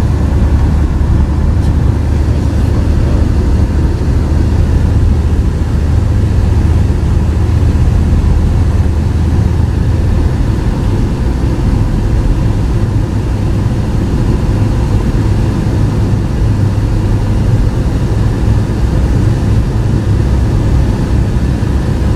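Steady low rumble of a car's engine and tyres on the road, with the deep hum stepping up a little in pitch about ten seconds in.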